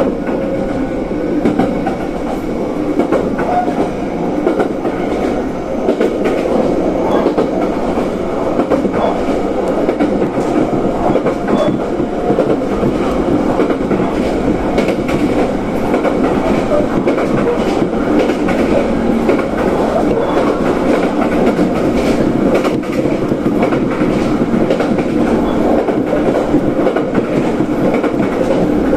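Train running at speed between stations, heard from inside the passenger car: a steady rumble of wheels on rail with faint scattered clicks.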